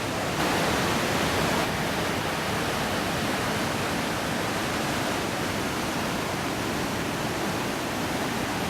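Steady roar of Iguazu Falls, water pouring over the cliff as an even rushing noise, a little louder for about a second near the start.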